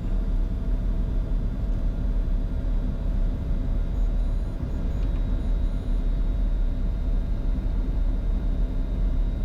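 Steady cockpit rumble of a Bombardier Challenger 605 business jet on final approach, stabilised at about 1,000 feet, with faint steady tones above the rumble.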